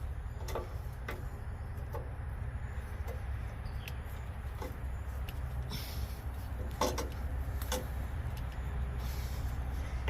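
A steady low rumble with scattered light clicks and knocks, typical of hand work on hose fittings on a truck.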